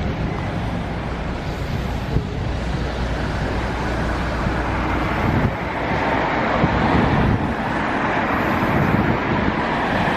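A vehicle running steadily, with wind noise on the microphone and a low rumble that gives way to a louder, brighter noise about halfway through.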